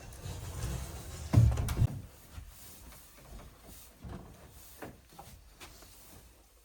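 A low rumble with a heavy thump about one and a half seconds in, then a few faint light knocks.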